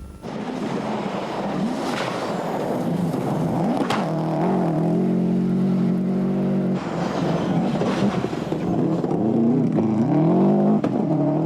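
Rally car engine at speed, its revs rising and falling through the gears and held steady for a moment midway, with two sharp cracks about two and four seconds in.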